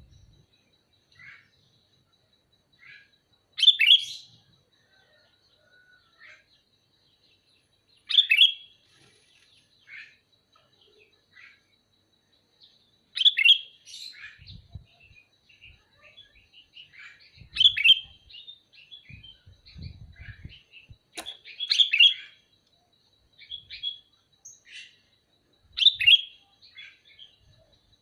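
Sooty-headed bulbul (kutilang) calling: short, bright chirping phrases repeated about every four to five seconds, with softer single notes in between.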